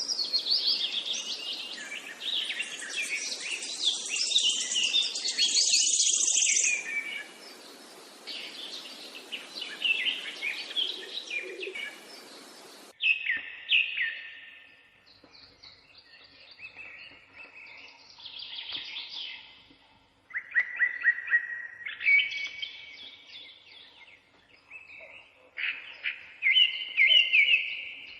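Several birds chirping and singing. For the first half a dense chorus of overlapping chirps and trills sits over a steady hiss. About halfway the background changes suddenly, and separate song phrases follow with short pauses between them on a quieter background.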